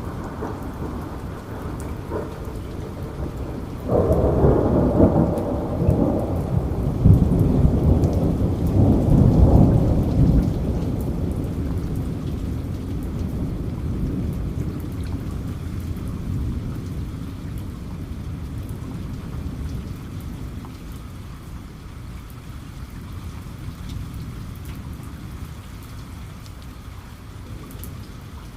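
Steady rain with a roll of thunder that breaks in suddenly about four seconds in, rumbles loudest for several seconds, then slowly dies away under the rain.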